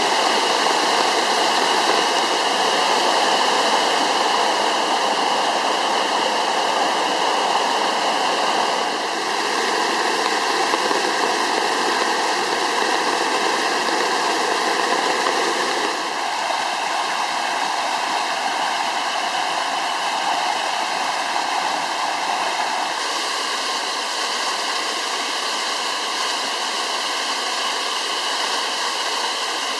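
Waterfall: a steady rush of falling water that shifts slightly in tone and loudness three times.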